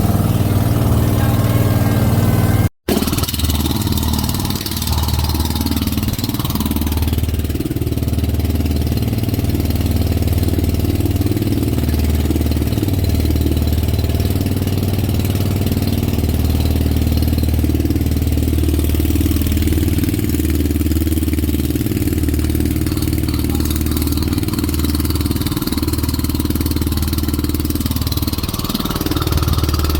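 A boat's engine running steadily at a constant pitch. The sound cuts out briefly about three seconds in.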